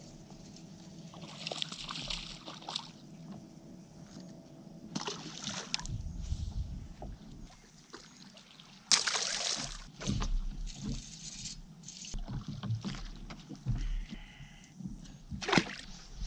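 Water sloshing and splashing around a fishing boat, with scattered knocks and short bursts of hiss; the loudest splash-like burst comes about nine seconds in.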